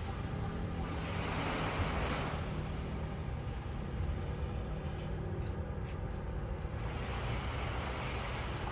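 Sea waves breaking and washing in, swelling twice, about a second in and again near the end, over a steady low rumble.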